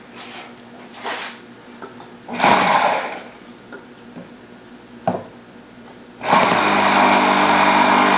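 ASP 1.60 FS Twin four-stroke model-airplane glow engine being started: a short burst of about a second, a brief blip, then it catches about six seconds in and runs steadily at a high, even note.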